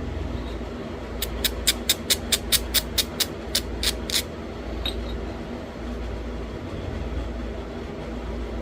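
A quick run of about fourteen sharp clicks, roughly four a second, then one more a little later: hand tools working a thin stone flake during flintknapping. A steady hum, like a fan, runs underneath.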